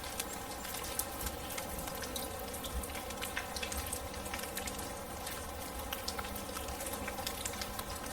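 Steady rain, with many small drops pattering and dripping throughout.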